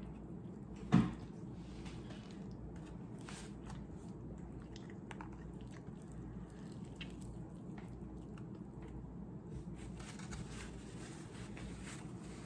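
A person biting into and chewing fried chicken, with faint crunching and wet mouth clicks. One brief louder sound about a second in.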